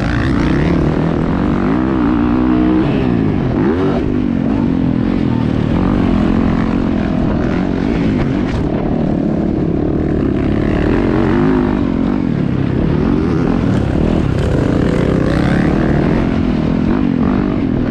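Motocross dirt bike engines running hard, their pitch repeatedly rising and falling as they rev.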